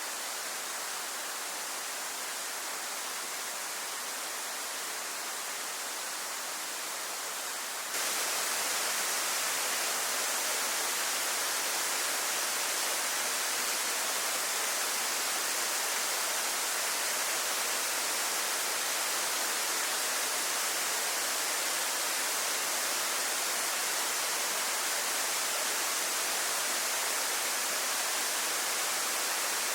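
Waterfall pouring in a steady, even rush. About eight seconds in it jumps abruptly louder and brighter, then holds steady.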